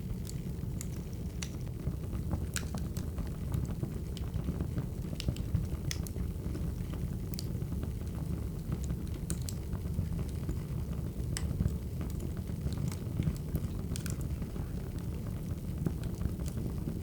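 Burning firewood crackling: a steady low rumble with irregular sharp pops and snaps.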